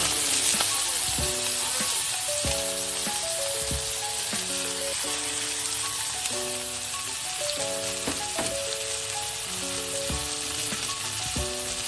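Chicken pieces and freshly added cut carrots and potatoes sizzling in a frying pan, over light background music with a simple melody.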